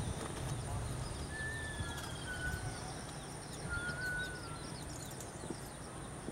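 Outdoor ambience: a bird gives a few short whistled notes, two of them longer and wavering, over a steady high-pitched whine and a low rumble.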